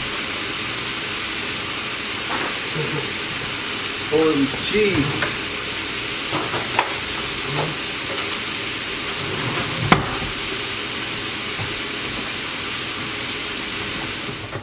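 Shrimp and crawfish tails frying in a pan with a steady sizzle, broken by a few sharp clicks, the loudest about ten seconds in.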